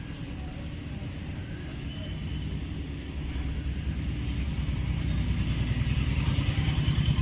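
Cat purring close to the microphone: a low, rapidly pulsing rumble that grows louder about five seconds in.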